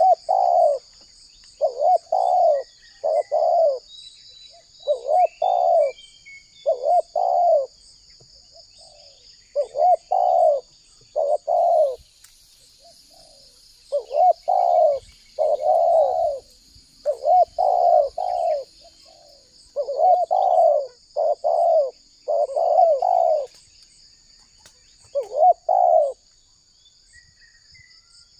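Spotted dove cooing over and over, in quick groups of two or three coos with short pauses between them. A steady high insect buzz runs underneath.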